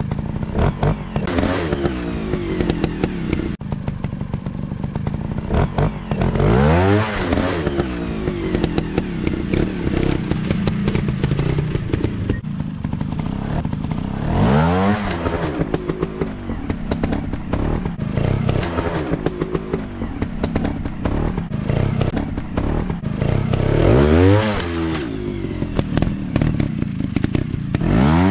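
Dirt bike engines running and revving as the bikes are ridden, with the engine note swelling up and falling back three times, about 7, 15 and 24 seconds in, and some clattering and knocks along the way.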